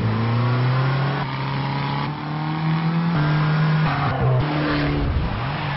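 Fiat 500 Abarth's turbocharged four-cylinder engine revving hard under acceleration. Its pitch climbs slowly, then drops about three seconds in as a gear is changed, and rises and falls again near the end.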